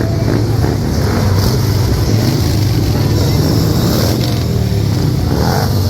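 Motorcycle engines running with a steady, deep rumble.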